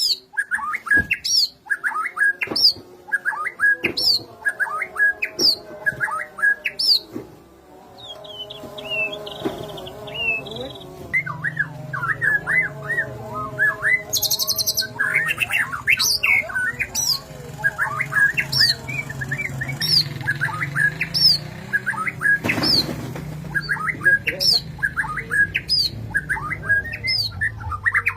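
Songbird calling over and over, each call a short chirp followed by a sharp upward whistle, a little more than one call a second. From about eight seconds in, softer, lower warbling notes and a low hum run underneath.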